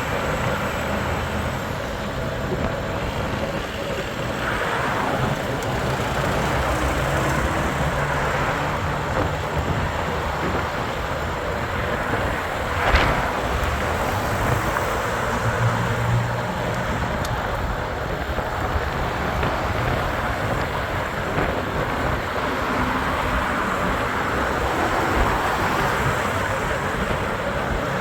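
Steady road and traffic noise, with one short sharp knock about halfway through.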